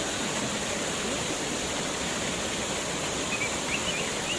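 Steady rushing of a waterfall, an even wash of falling water, with a few faint high wavering chirps near the end.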